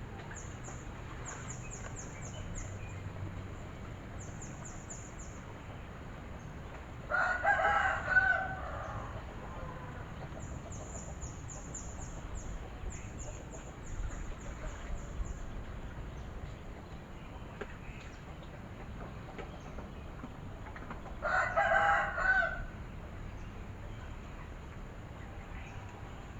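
A rooster crows twice, about fourteen seconds apart, each crow lasting about a second and a half. Between the crows, runs of high, rapid chirping come and go over a steady rural background.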